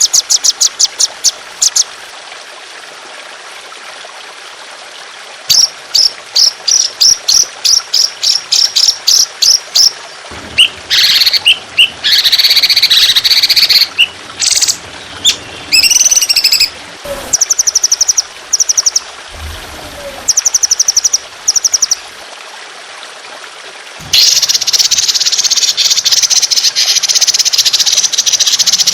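Recorded songbird song in the rough, rapid 'trotolan' style: strings of sharp, high repeated notes in bursts, ending in a long continuous rattling trill from a little before the end. A steady trickle of water runs underneath between phrases.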